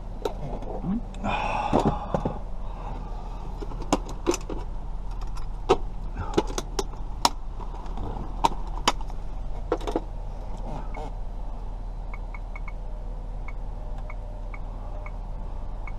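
Keys and small metal lock parts being handled, giving scattered sharp clicks and taps, with a brief rustle about two seconds in. A low steady hum runs underneath, and a few faint short beeps come near the end.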